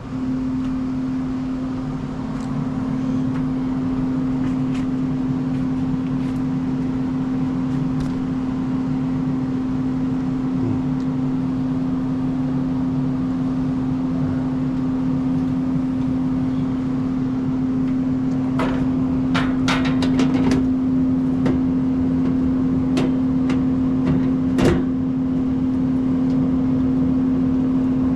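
Central air-conditioning system running with a steady, even hum that switches on suddenly at the start. A cluster of light clicks and taps comes about two-thirds of the way through.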